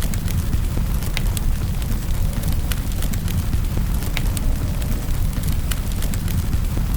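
Wood fire crackling in a fireplace, with several sharp pops and snaps over a steady low rumble, and an even hiss of rain behind it.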